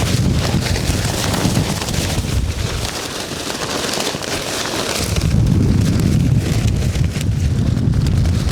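Strong wind buffeting the microphone in a continuous low rumble, easing for a couple of seconds in the middle, where a crackling rustle comes to the fore, then buffeting hard again.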